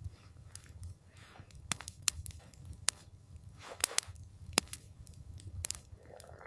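Wood campfire crackling, with sharp irregular pops and snaps over a low steady rumble.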